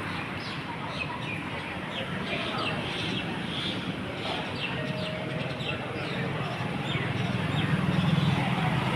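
Many small birds chirping in quick, short falling notes, over a low steady rumble that grows louder near the end.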